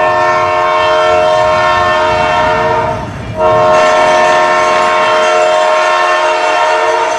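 Loud air horn sounding a multi-note chord like a train horn, in two long blasts of about three and a half seconds each with a short break between them.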